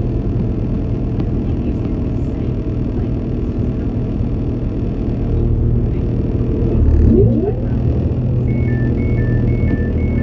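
Inside a CAF Class 195 diesel multiple unit under way: a steady rumble of engine and running gear, swelling briefly with a rising pitch about seven seconds in. Near the end a two-tone alternating beeping starts, about two cycles a second.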